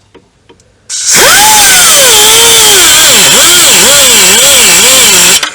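Air-powered cut-off wheel starting about a second in and cutting into a rusty steel strut bracket, its whine rising, then sagging and wavering as the wheel bogs under load. It stops briefly near the end and spins up again.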